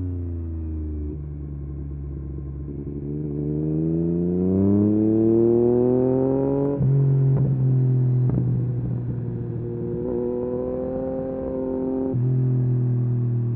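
2023 Yamaha MT-09 SP's three-cylinder engine through a full Akrapovic race exhaust, rising in pitch under acceleration. About seven seconds in it breaks off with a few sharp cracks, then holds fairly steady and changes again near the end.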